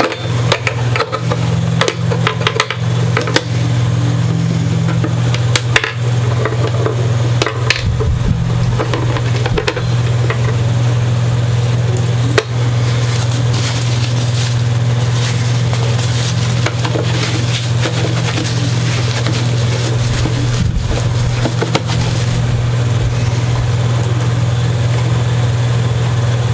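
A steady low hum with scattered clicks, taps and light handling noises of small objects being worked with by hand.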